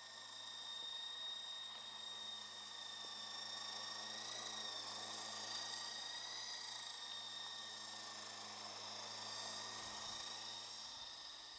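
Electric motors and coaxial rotors of a Lama V4 RC helicopter whining steadily. The pitch wavers slightly and the sound grows louder toward the middle, then eases off near the end.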